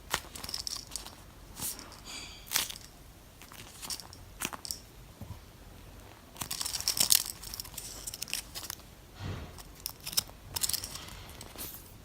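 Hands handling and squeezing foam squishy toys: irregular crinkling rustles and small clicks, busiest about halfway through.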